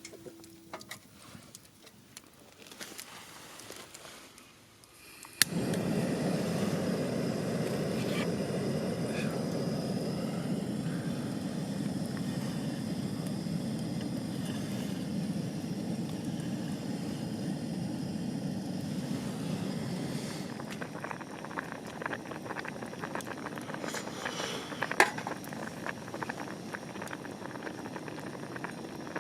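Fire sounds: faint crackling, then after a sharp click about five seconds in, a steady low rushing sets in. It eases a little near the end while many small crackles and pops sound over it.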